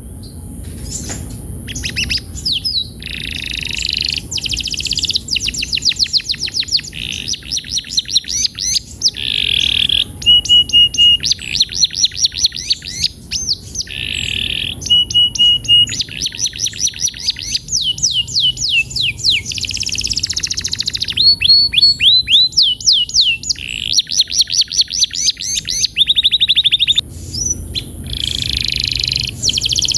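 A male domestic canary singing continuously in fast trills and rolls. Each phrase is a run of rapidly repeated notes that changes every second or two, with sweeping glides and a few short steady whistled notes between them.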